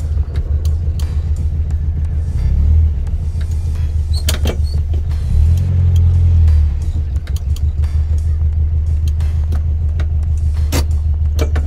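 Tuned 2007cc air-cooled VW Beetle flat-four on twin Weber 48 carburettors, idling with a lumpy, pulsing beat, heard from inside the cabin. It swells with a short throttle rise about two and a half seconds in and a longer one at about five and a half seconds. Two sharp clicks fall about four seconds in and near the end.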